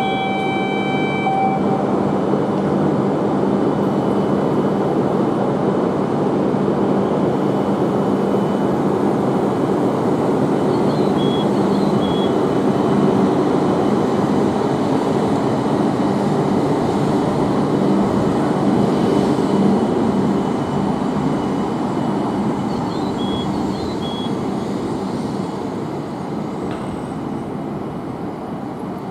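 Tohoku Shinkansen train moving along the station platform: a loud, steady rushing running noise that slowly fades over the last several seconds.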